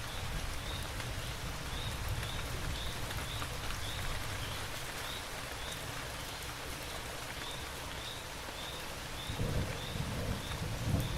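Steady rain falling, with a faint high chirp repeating about twice a second. A low thunder rumble starts about nine seconds in and grows louder.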